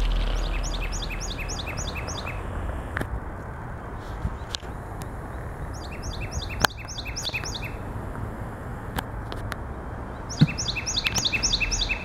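A songbird singing: three phrases of about seven quick repeated falling notes, each phrase lasting about two seconds with a few seconds between, over a steady outdoor hiss. A brief knock sounds shortly before the last phrase.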